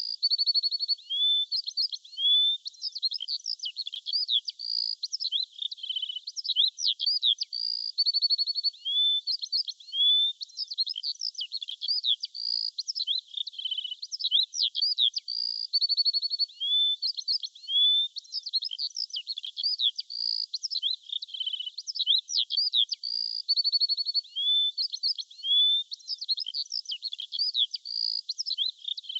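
Continuous birdsong: a dense run of high chirps, quick whistled phrases and short trills with no pauses. The same stretch of song recurs about every seven seconds, as in a loop.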